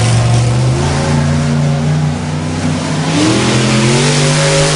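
Monster truck engine revving: its pitch steps up about a second in, then climbs again after about three seconds. A loud rushing noise joins the engine over the last couple of seconds.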